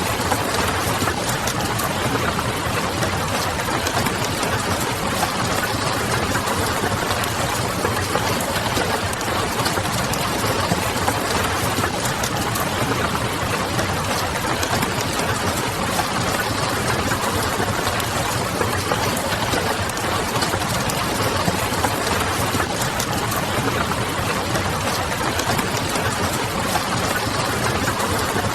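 Steady rain pattering on a window mixed with the crackle of a wood fire and a low city hum, even and unchanging throughout.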